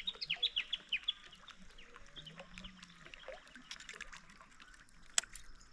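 A bird calling, a quick run of about eight short, high, falling notes in the first second, then scattered chirps, with a single sharp click about five seconds in.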